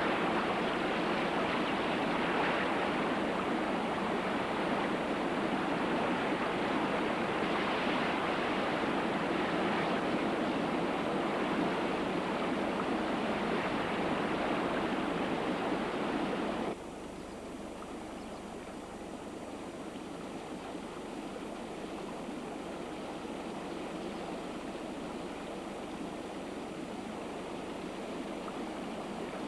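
Rushing river water, a steady loud rush that suddenly drops to a quieter, duller flow about two-thirds of the way through. It is the Tsavo River running again after the storm rains reached its headwaters.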